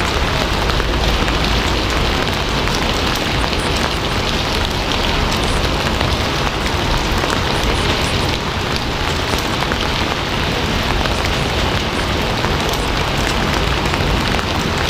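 Steady rain falling, a dense, even hiss with scattered drops and no letting up.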